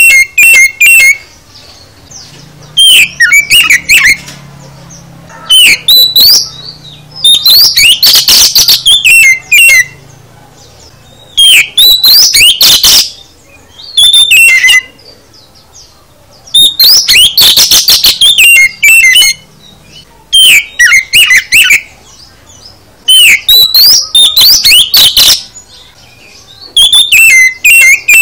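Oriental magpie-robin (kacer) singing loudly in separate phrases of rapid high whistles, chirps and trills, each a second or two long, with short pauses between them. Its varied song carries a full load of imitated phrases.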